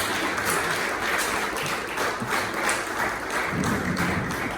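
Audience applauding at the end of a song, a steady patter of many hands clapping.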